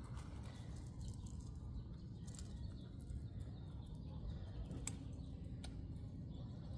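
Scissors snipping through plastic bird netting: a few scattered sharp clicks, the sharpest about five seconds in, over a steady low rumble.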